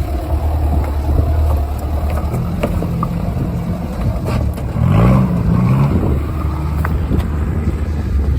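Jeep 4x4's engine running steadily under load on a rough off-road track, with scattered knocks and rattles from the rocky ground. About five seconds in the revs rise and fall briefly.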